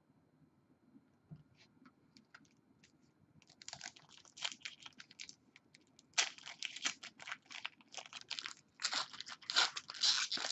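Foil trading-card pack wrapper being torn open and crinkled: a few faint clicks at first, then from about three seconds in a dense run of sharp crackles.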